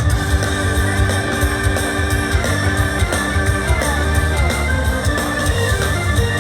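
Live pop-rock band playing an instrumental passage: sustained organ-like keyboard chords over a heavy bass line and drums, with no singing.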